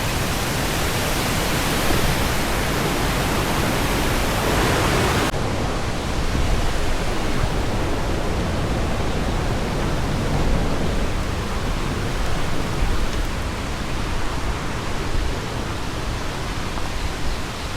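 Waterfall's rushing water, a steady loud hiss. The sound turns abruptly duller about five seconds in.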